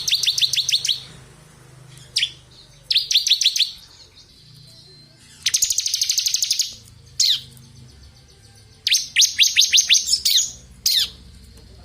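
A ciblek kristal (bar-winged prinia) singing in bursts of rapid, high chirping rattles, each about half a second to a second long. Between the bursts come single sharp notes that drop in pitch, and there are short pauses.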